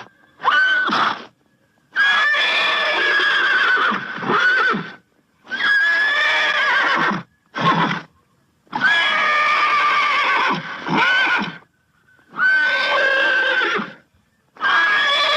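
A horse neighing over and over: about seven whinnies, each from under a second to about three seconds long, with short pauses between them.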